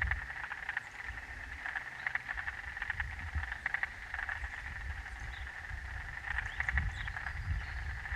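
Chorus of frogs calling, rapid pulsed calls repeating in clusters every second or so, over a low rumble.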